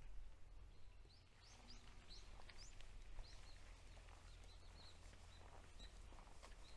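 Faint birdsong: a quick run of short, rising chirps about a second in, then softer repeated chirps, over a steady low background rumble.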